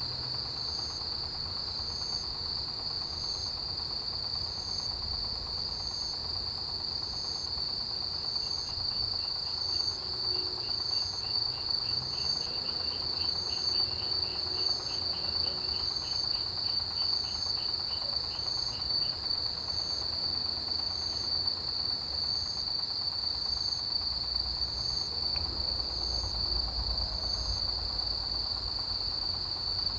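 Autumn chorus of crickets and other grass insects. One insect holds a steady high trill, another chirps a little over once a second above it, and a faster pulsing call joins from about a quarter of the way in until past the middle.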